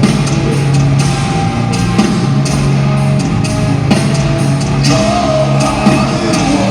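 Heavy metal band playing live: heavy distorted guitar chords over drums, with vocals.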